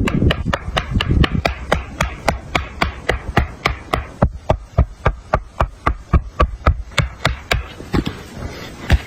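Rapid, regular knocking strikes, about four a second, stopping about seven and a half seconds in.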